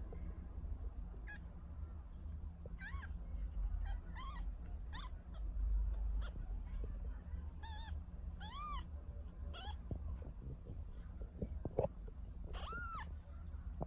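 A week-old kitten mewing: about nine short, high-pitched cries that rise and fall in pitch, the longest and loudest near the end. A low steady hum lies underneath, with a few faint clicks in the last few seconds.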